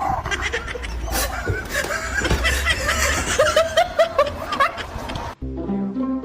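People laughing, a run of short chuckles. Near the end it cuts off suddenly and plucked string music starts.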